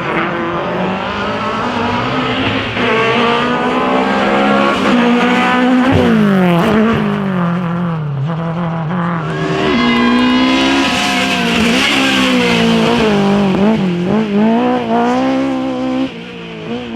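Drift car's engine revving hard, its pitch swinging up and down with the throttle and dropping sharply twice. Tyres squeal in the middle stretch as the car slides.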